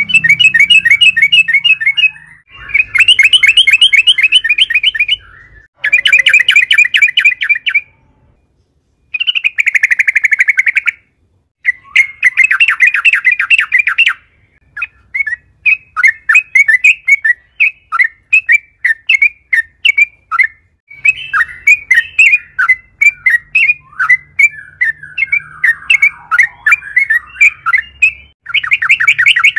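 Yellow-vented bulbul (trucukan) singing loudly: fast chattering runs of repeated notes a few seconds long with short pauses between them, loosening about halfway into a string of separate bubbly notes.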